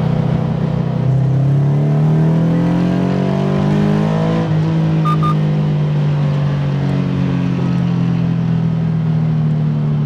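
Car engine under hard acceleration: its pitch rises for about four and a half seconds, drops at a gear change, then holds nearly steady under load.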